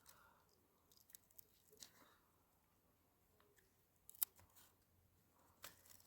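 Near silence with a few faint, scattered clicks; one sharper click comes about four seconds in.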